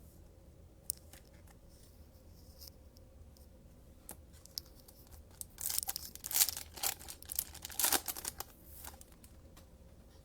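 A trading card pack wrapper being torn open and crinkled, a run of sharp crackling tears about five and a half seconds in after a quiet stretch with one click.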